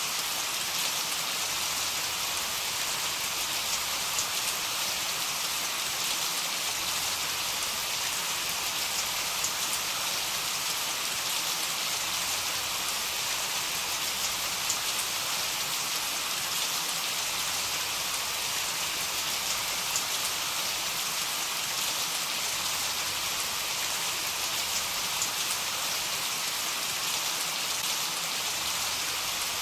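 Heavy rain falling steadily: an even, dense hiss with scattered faint drop ticks.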